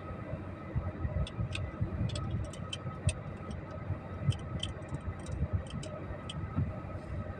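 Low, steady rumble of a vehicle, with a run of quick, irregular light clicks through the middle.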